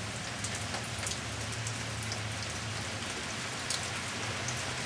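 Steady rain falling, with a few sharper ticks of single drops landing close by.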